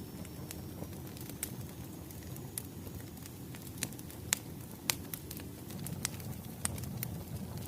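Wood fire crackling: scattered sharp pops and snaps over a steady low rumble of burning logs. The loudest pops come near the middle.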